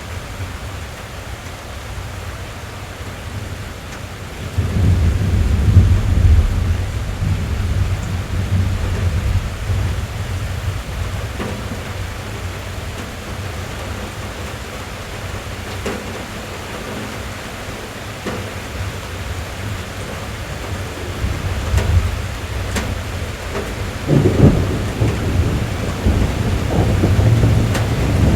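Rain drumming steadily on a car roof and windows, heard from inside the cabin. Deep thunder rumbles in about four seconds in, fades over several seconds, and rolls in again near the end.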